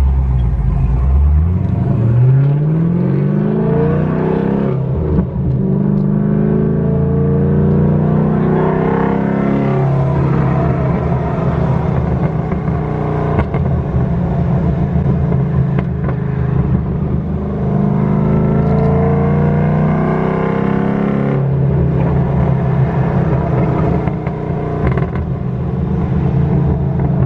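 Cammed LS3 V8 of a 2011 Camaro, straight-piped with the muffler deleted, under way. The revs climb steeply over the first two seconds, then it runs at fairly steady revs with small rises and falls, and the revs drop around twenty seconds in.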